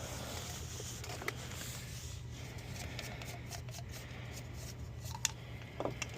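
Light handling noise, rustling with a few sharp clicks about five seconds in and near the end, over a steady low hum.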